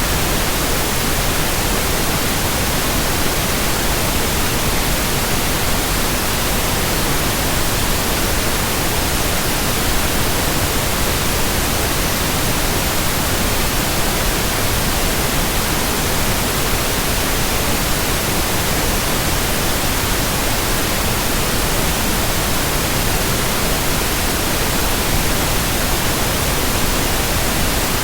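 Steady white noise: an even, unchanging hiss spread across all pitches, with no tones, rhythm or pauses.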